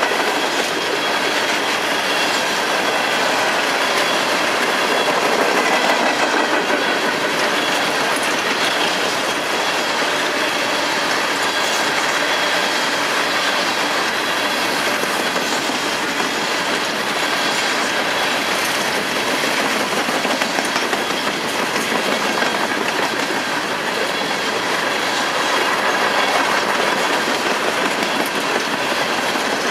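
Freight train cars rolling past, a steady rumble of steel wheels on rail with faint high wheel squeal.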